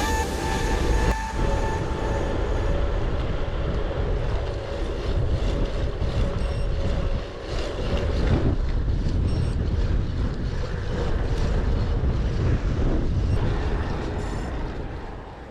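Strong headwind buffeting the microphone of a moving bicycle, a dense low rumble of wind noise. It dips briefly about seven seconds in and fades out at the end.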